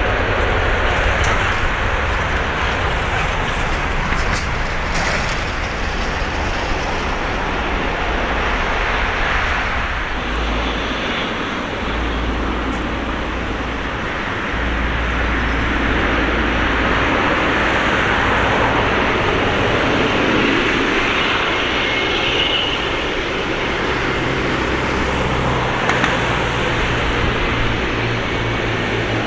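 Steady, loud roar of a Boeing 777-300ER's GE90-115B jet engines at takeoff, with a deep rumble underneath that comes and goes.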